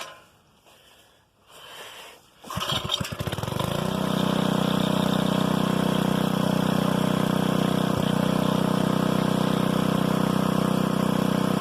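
Old Briggs & Stratton 5 hp single-cylinder four-stroke engine starting about two and a half seconds in, speeding up briefly and then settling into steady running.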